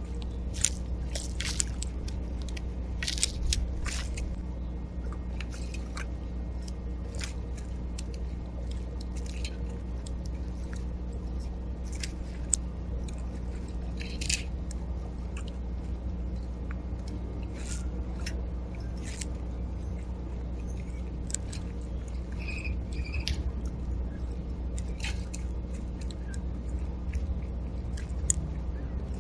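Seed being cracked and eaten at a backyard feeder: many small, irregular clicks and crunches close to the microphone over a steady low hum, with two short high notes a little past the middle.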